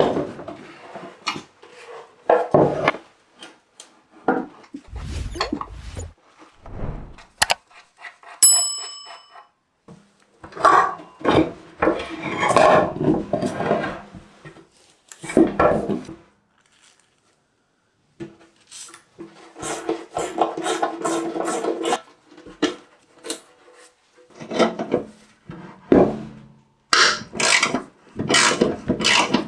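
Metal parts and tools being handled at a workbench: irregular clinking, knocking, scraping and rubbing, with one ringing metallic ding about eight seconds in.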